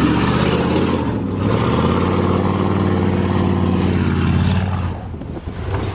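1988 Chevrolet pickup truck's engine running at a steady pitch, dropping away about five seconds in.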